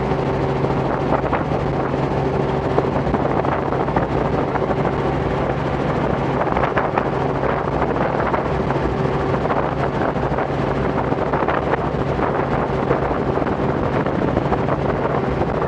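Robinson R44 helicopter in flight, its engine and rotors making a steady drone with wind noise on the microphone.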